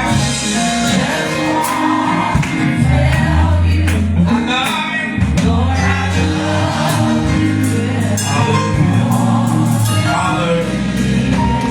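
Gospel music with singing over sustained low bass notes and repeated percussion strikes.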